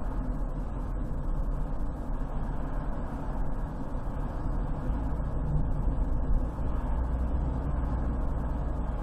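Steady rumble of a car driving: road and tyre noise, with a deeper low rumble from about five seconds in.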